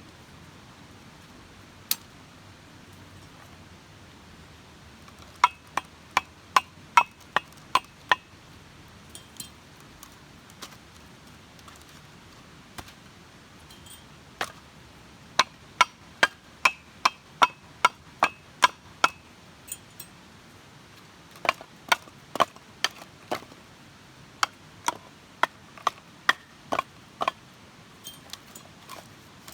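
Runs of sharp strikes, about three a second, in several bursts with short pauses between, each strike with a slight ringing edge.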